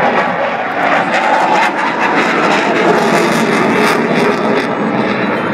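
CF-18 Hornet jet fighter flying overhead, its jet engines making a loud, steady noise.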